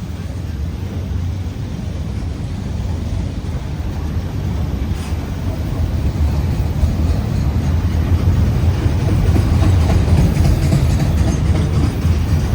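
CSX freight train's diesel locomotives rumbling, growing steadily louder as the train approaches.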